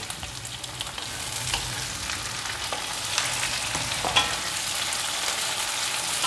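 Chopped onion, garlic, chilli and tomato sizzling in hot oil in a non-stick wok, stirred with a wooden spatula that scrapes the pan now and then. The sizzle slowly grows louder.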